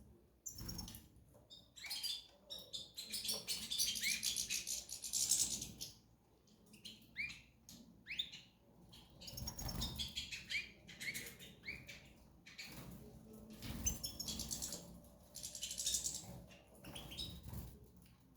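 Small cage birds chirping in bouts of short rising calls and rattling trills, mixed with the flutter of wings.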